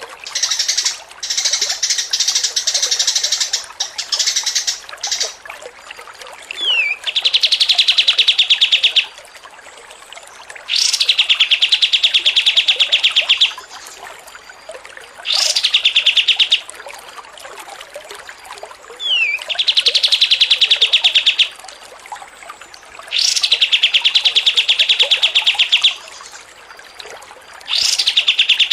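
A caged songbird singing: a burst of fast, varied chirping, then a rapid, even trill phrase repeated about six times, each lasting about two seconds with pauses between, two of them opened by a quick falling note.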